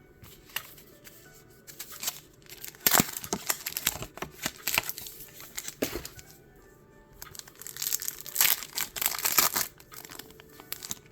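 Pokémon card blister and booster pack packaging being torn open and crinkled, in two bouts of crackling, the second beginning about halfway through.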